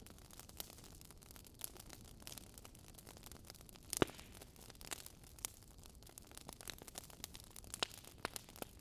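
Fire crackling: scattered small pops and snaps at an uneven pace over a faint hiss, with one louder pop about four seconds in.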